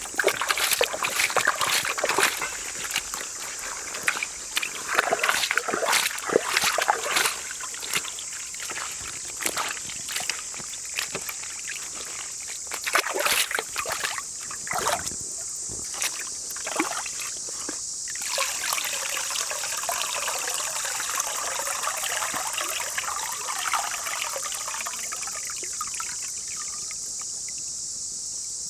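Water sloshing and splashing in irregular strokes, as when something is washed by hand in a basin of water, easing to a gentler trickle about two-thirds of the way through. A steady high-pitched hiss runs underneath.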